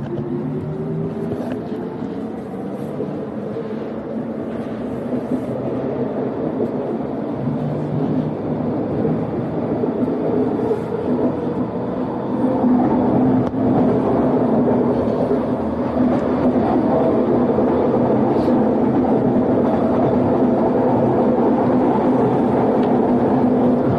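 Inside a SkyTrain car under way: a steady motor whine over rumble and rolling noise. It grows louder through the first half as the train picks up speed, then holds steady from about halfway.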